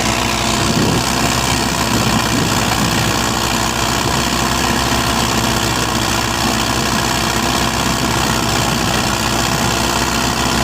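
Preet 6049 tractor's diesel engine running steadily at an even speed.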